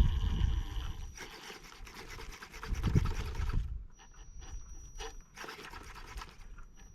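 Wind buffeting the microphone in gusts as a deep rumble, with stretches of scraping and rubbing.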